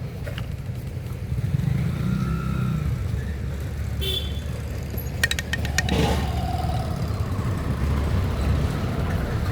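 Steady low rumble of passing road traffic, with a brief vehicle horn toot about four seconds in and a quick run of sharp clicks a little after five seconds.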